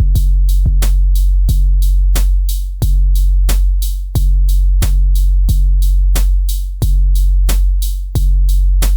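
Elektron Syntakt drum machine playing a looped beat: long, deep bass-drum notes re-struck about every one and a half seconds under a steady run of sharp, bright hi-hat-like clicks several times a second.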